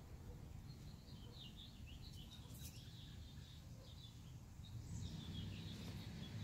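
Faint bird chirps over a low, steady outdoor rumble.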